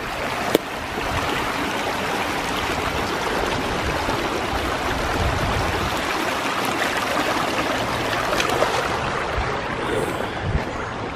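Creek swollen by heavy rain, rushing in a steady, even wash of water noise, with a few faint knocks.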